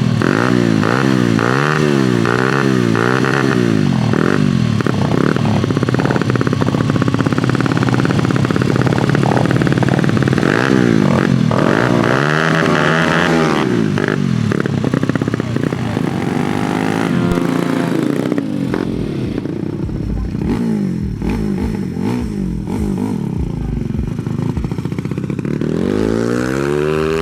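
Dirt bike engines revving over and over, the pitch rising and falling about once a second, with a longer run up to high revs and back down around the middle and another climb near the end.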